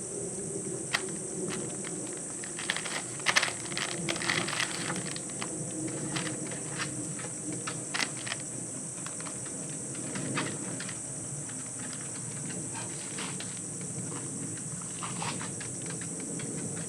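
Steady high-pitched insect chorus, with scattered light clicks and taps, bunched together about three to five seconds in.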